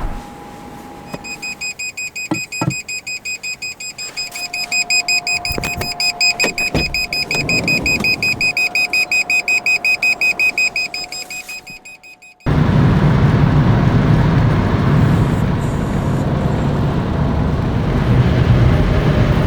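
Carbon monoxide alarm sounding a rapid string of high-pitched beeps, cutting off suddenly about twelve seconds in. Then a steady low rush of strong wind and car noise.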